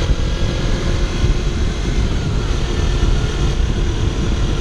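Wind rushing over the microphone with the steady running of a Kawasaki Ninja 300's parallel-twin engine, as the motorcycle cruises along.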